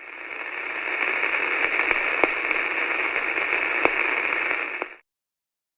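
Radio static: a steady hiss with a few sharp crackles, swelling in over the first second and cutting off suddenly about five seconds in.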